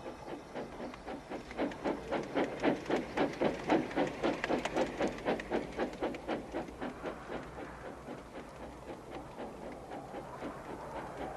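Steam locomotive chuffing, about four beats a second, growing louder over the first couple of seconds and then fading away as if the engine passes and runs off.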